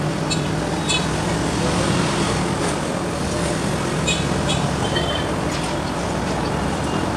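Steady outdoor street ambience of road traffic: an even rush with a low hum underneath, and a few short high chirps scattered through it.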